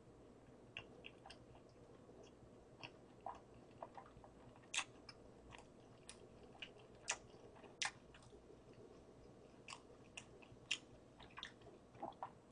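A person chewing a mouthful of burger with her mouth closed. It comes through as soft, irregular wet mouth clicks.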